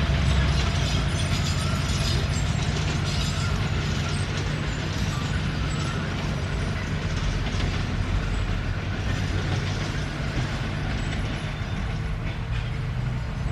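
Komatsu D21P crawler bulldozer at work: its diesel engine running steadily under a constant clatter and rattle from the steel tracks and undercarriage, easing off slightly in loudness.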